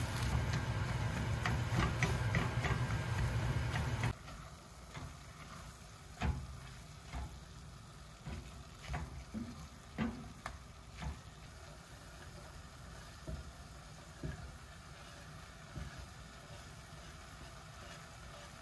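Kitchen cooking sounds: a steady sizzle over a low hum that stops abruptly about four seconds in, followed by scattered light clicks and knocks.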